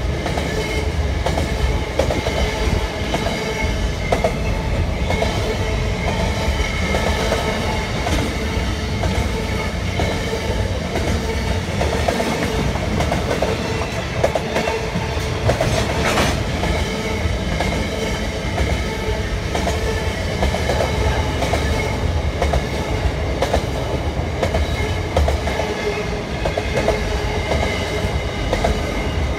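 Freight train rolling past at steady speed: a continuous rumble with wheels clicking over the rail joints, and a louder clank about 16 seconds in.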